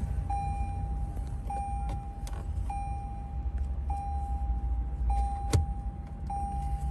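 Lexus RX interior warning chime beeping steadily, one short tone about every 1.2 seconds, with a few sharp plastic clicks from trim being pried off, the loudest about five and a half seconds in.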